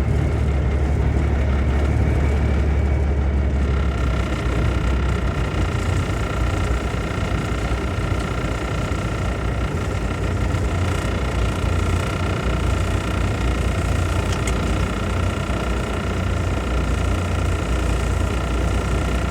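Grain truck's engine running steadily while it waits on the elevator scale, with a steady high whine joining about four seconds in.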